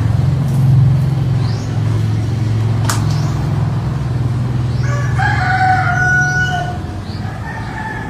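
A rooster crows once, about five seconds in, over a steady low hum like an engine running, with a few sharp clicks.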